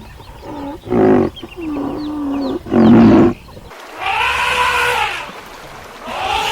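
Animal calls: two short, loud, deep calls, with small birds chirping between them, then two higher calls that rise and fall in pitch.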